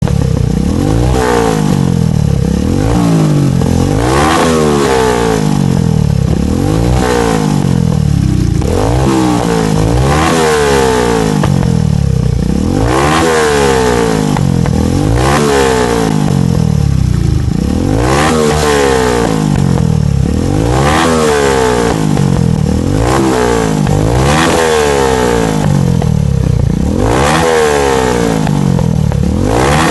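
Bajaj Pulsar 200's single-cylinder engine, through a modified free-flowing exhaust, revved hard again and again, about every second and a half. The revs climb sharply and fall back each time, with popping from the exhaust as the throttle closes.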